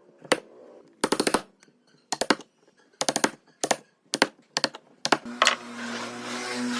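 Short bursts of rapid, sharp clicking impacts on wood, about one burst a second, typical of a power tool driving fasteners. From about five seconds in, a power tool's motor runs with a steady hum.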